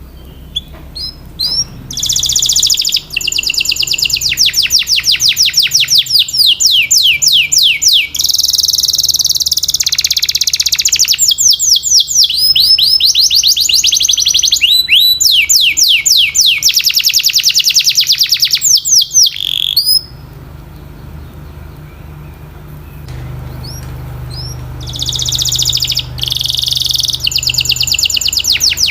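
Domestic canary singing: long runs of fast, evenly repeated sweeping notes in rolling trills. The song breaks off about two-thirds of the way in and starts again near the end.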